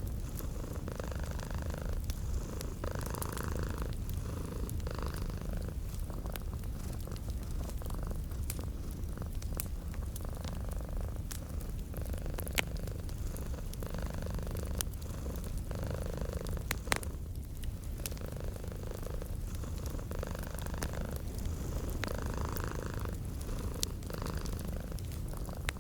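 Domestic cat purring steadily, swelling and easing with its breathing, mixed with the scattered pops and crackles of a fireplace.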